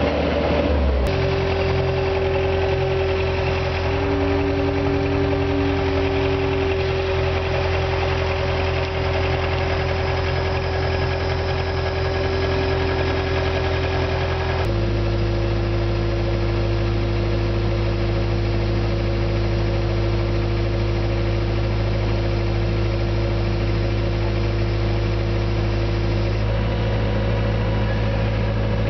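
Skid-steer loader's engine running at a steady speed, its note shifting abruptly to a new pitch about a second in and again about halfway through.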